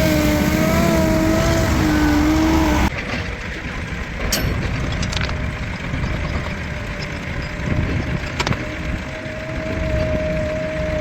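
Heavy machinery engine running with a steady, slightly wavering whine. The sound changes abruptly about three seconds in to a rougher running noise with a few sharp metallic clicks, and the steady whine comes back near the end.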